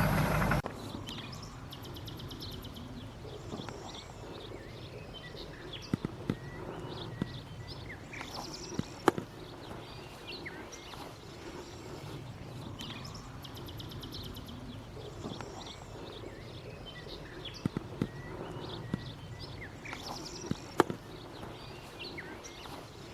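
Quiet outdoor background with small birds chirping in short, high trills every few seconds, and a few sharp clicks.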